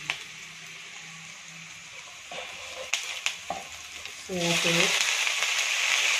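Chopped garlic and chillies sizzling gently in sesame oil in a wok, with a few sharp taps of the spatula. About four seconds in, soy sauce is poured into the hot oil and the sizzling jumps suddenly much louder and stays loud.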